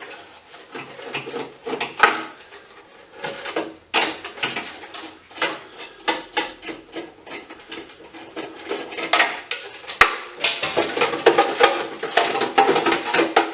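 Metal scrap and hand tools being handled while a fixture is taken apart: irregular clinks, clatters and knocks of metal parts, with a few sharper strikes about 2, 4 and 10 seconds in and busier clattering near the end.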